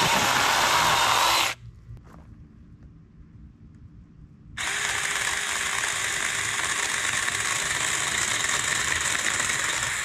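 Power saw running at full speed, stopping about a second and a half in, then starting up again about three seconds later and running steadily.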